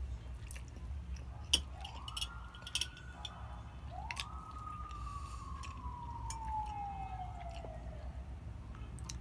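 A siren wails twice, each a single clear tone: the first rises and holds briefly, the second rises quickly and then slides slowly down over about four seconds. Sharp clicks and taps from eating, one louder click about a second and a half in, sound over a steady low rumble.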